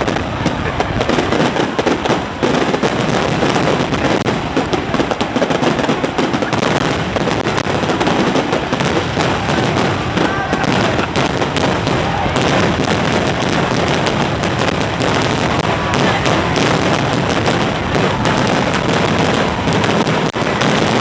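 Fireworks finale: a dense, unbroken barrage of shells bursting and crackling, with shots packed too close to pick apart.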